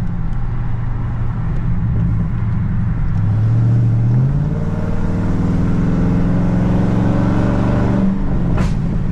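Dodge Charger Scat Pack's tuned 6.4-litre HEMI V8 accelerating hard: a low steady drone, then about three seconds in the engine note climbs and holds higher as the car pulls, dropping back near the end.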